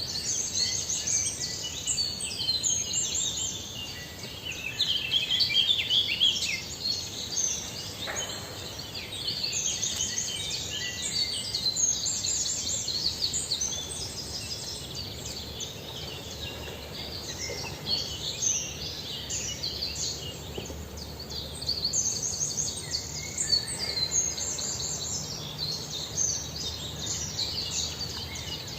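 Small birds chirping continuously, many short high chirps overlapping in a dense chorus.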